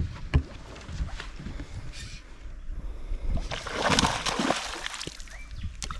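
Two sharp knocks on the boat, then a splash of water about three and a half seconds in.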